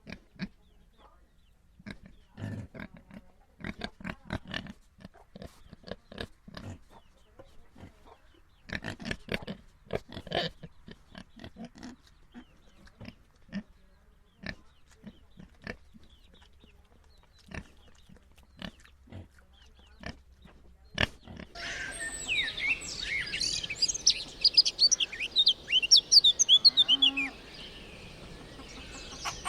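Pigs grunting in short, irregular bursts. About two-thirds of the way through, the sound changes suddenly to many birds chirping and twittering at a high pitch, which is the loudest part.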